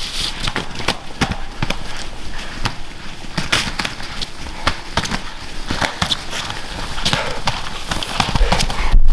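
Irregular thumps and rustling crunches in dry forest litter, spaced unevenly through the whole stretch.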